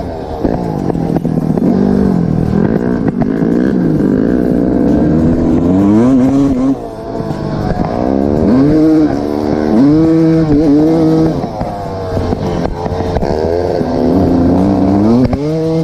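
Motorcycle engines revving up and down repeatedly, sometimes more than one at once, with the pitch rising and falling every second or two.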